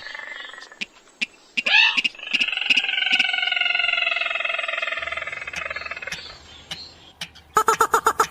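Rail calls from a bird-lure recording of sintar or mandar padi. A long nasal call slowly falls in pitch over about four seconds, with sharp clicks scattered around it. Near the end comes a fast run of pulsed notes.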